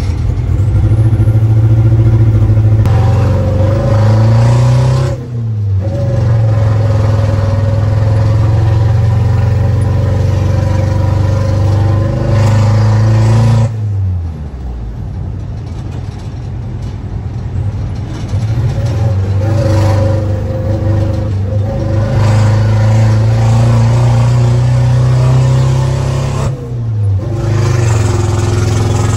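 Isuzu D-Max's 1.9-litre four-cylinder turbo diesel pulling under acceleration, heard from inside the cab. The pitch climbs and drops sharply at gear shifts about five seconds in, around the middle, and near the end.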